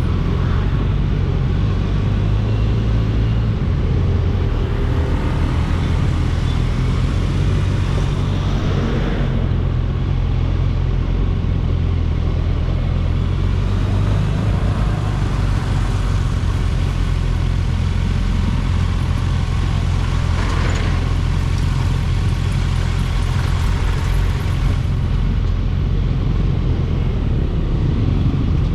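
Kawasaki Ninja 1000SX inline-four engine running steadily under way, mixed with road and wind noise, heard from on the bike. Its pitch stays fairly even, with only small shifts.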